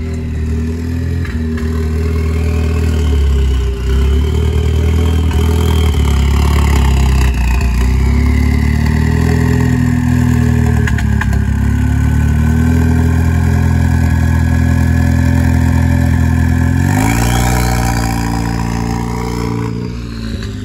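Ford Focus ST engine running as the car is driven, its revs rising and falling with the throttle, with a sharp climb in revs near the end.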